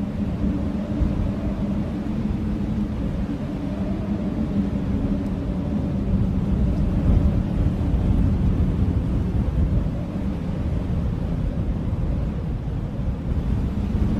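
Blizzard wind howling: a steady low rush of wind carrying a sustained low moaning tone, swelling a little midway.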